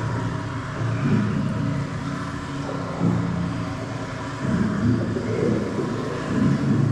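A vehicle running, with a steady low hum under a wash of noise that swells louder several times.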